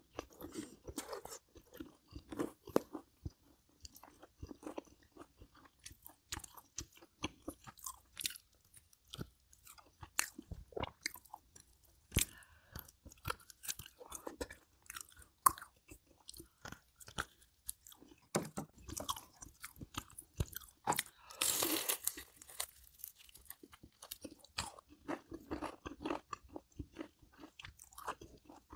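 Close-up chewing and crunching of food, with many small, irregular crisp crunches. A louder rush of noise lasting about a second comes about two-thirds of the way in.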